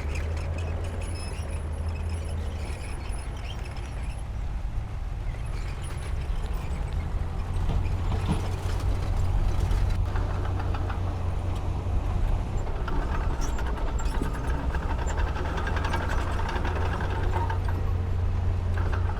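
Diesel engine of a heavy earthmoving machine working steadily, growing louder about eight seconds in as it comes under load.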